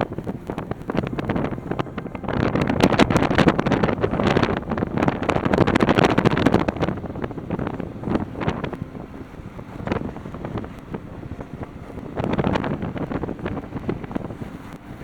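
Strong wind buffeting the microphone in gusts, a loud rushing that swells from about two seconds in and again near the end.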